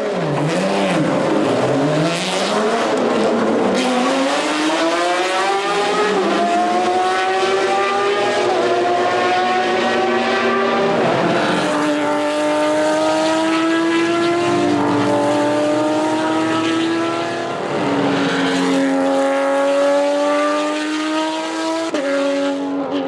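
Porsche 911 RSR GTE race car's 4.0-litre flat-six running at high revs through an open, center-mounted exhaust, very loud. It accelerates through the gears, the pitch climbing and then dropping sharply at each upshift, four or five times.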